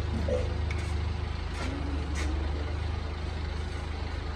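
Rebuilt Komatsu six-cylinder diesel engine running steadily with a deep, even rumble. A couple of light clicks come about one and a half to two seconds in.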